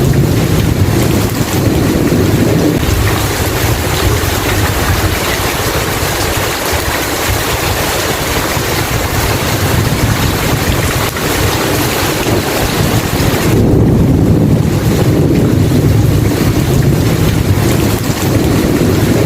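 Heavy, steady rain with low rumbles of thunder, swelling near the start and again in the second half.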